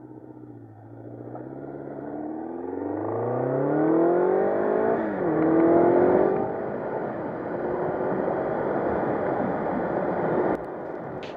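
1984 Honda CB700SC Nighthawk S's inline-four engine, freshly rebuilt top end, accelerating hard under way: the pitch climbs for a few seconds, dips at a gear change about five seconds in and climbs again, then settles into steady cruising with heavy wind and road noise.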